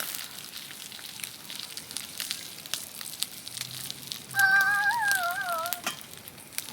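Campfire crackling and hissing, with many small sharp pops. Partway through, a high wavering squeal sounds for about a second and a half.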